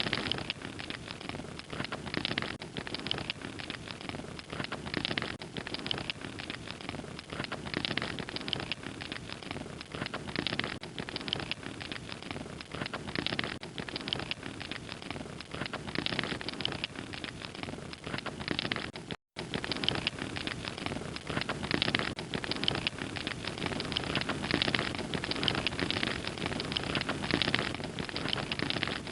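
Wood fire crackling: a dense, continuous run of small crackles and snaps over a steady hiss, broken by a split-second gap about two-thirds of the way through.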